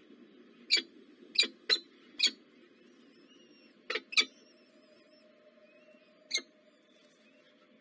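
Small bird giving short, sharp squeaky chirps: four in quick succession, then a close pair, then one more. Fainter thin whistled bird notes sound in between.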